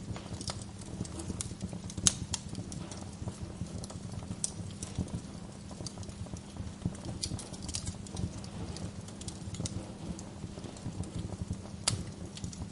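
Wood fire crackling in a fireplace: irregular small pops and snaps over a low steady rumble of the flames, with a sharper pop about two seconds in and another near the end.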